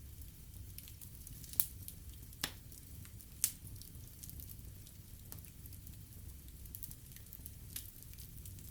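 Wood fire burning in a fireplace: a steady low rumble with light, continuous crackling, and three sharper pops in the first half.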